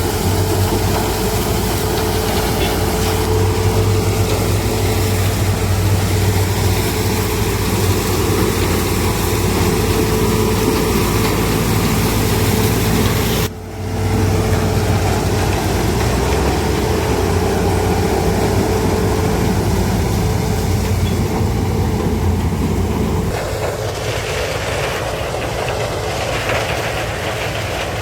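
Heavy diesel farm machinery running steadily under load: the engines of a sugarcane harvester and tractor working together. The sound drops out for a moment about halfway through, and near the end the low engine hum falls away, leaving a lighter mechanical clatter.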